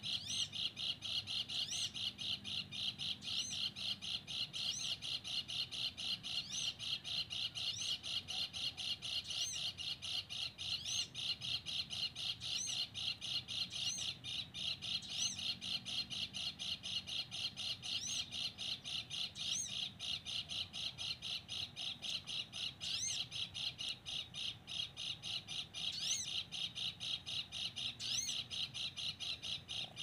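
Bird calling: a fast, unbroken series of short high notes, several a second, with higher rising notes breaking in every second or two.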